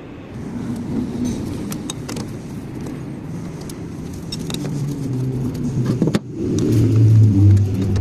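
A motor running with a low drone that climbs in pitch, with scattered sharp metallic clicks. It drops out briefly about six seconds in, then comes back louder and lower.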